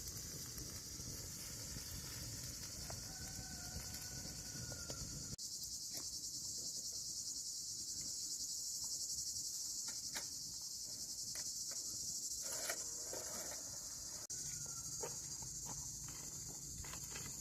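Steady high-pitched chirring of an insect chorus, with a few scattered light clicks and knocks over a low rumble.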